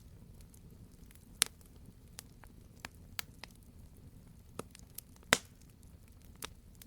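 Wood fire crackling: irregular sharp pops and snaps over a low steady rumble, the two loudest about a second and a half in and a little after five seconds.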